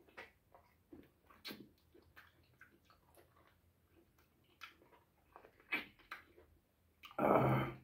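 Mouth and hand eating sounds: scattered wet clicks and smacks of chewing and of pulling meat off a cooked goat's head by hand. A short burst of the eater's voice comes near the end.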